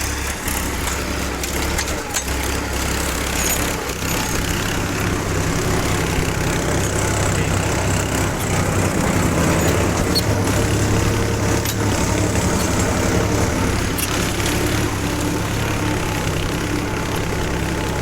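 Powertrac 434 tractor's diesel engine running under heavy load while pulling a 14-disc harrow weighted with bags of soil. The engine note grows a little louder about four seconds in and then holds steady.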